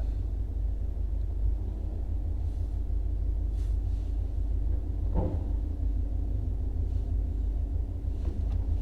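2017 Ford Mustang GT's 5.0 V8 running under way as the car is driven, a steady low rumble.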